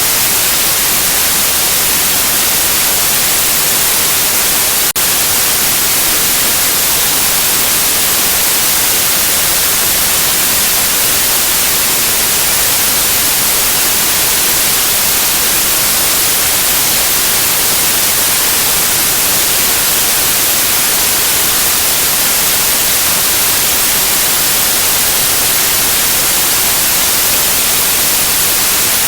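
Steady, loud white noise: an even hiss with no tone or rhythm, with a single brief click about five seconds in.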